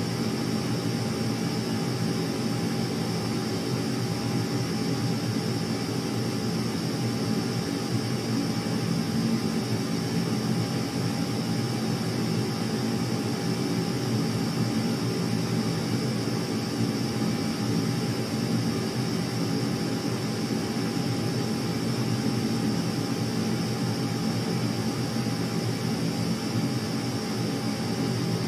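Steady jet aircraft engine noise that does not rise or fall, with a faint steady high whine over it.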